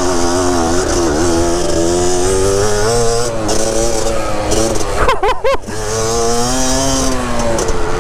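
Two-stroke dirt bike engine running under throttle while being ridden, its pitch wavering up and down. About five seconds in the revs drop off briefly and climb again.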